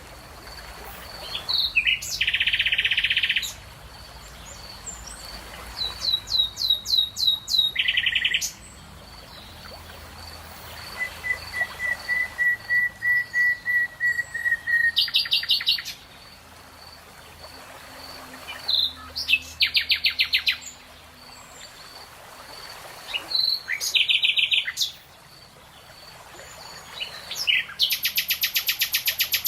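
Songbirds singing in turns, a short phrase every few seconds: rapid high trills, a run of quick rising chirps and one longer steady trill. A faint, evenly pulsing high note runs underneath.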